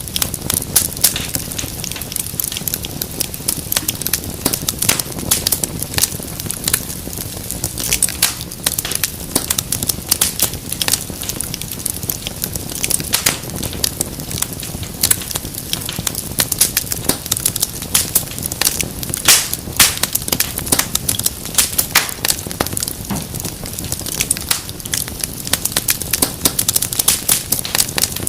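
Wood fire burning in a fireplace, with a steady low rumble and many irregular sharp crackles and pops.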